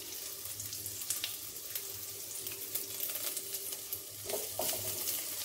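Mashed potato frying in hot oil in a kadai: a steady crackling sizzle, with spatula stirring sounds near the end.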